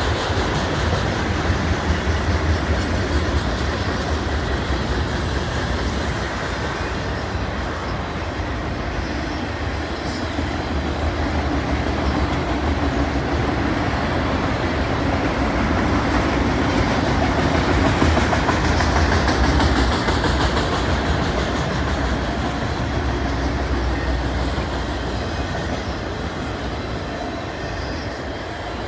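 Freight train cars, autoracks and a covered hopper, rolling past on steel wheels: a steady rolling noise of wheels on the rails with a strong low rumble, swelling slightly past the middle.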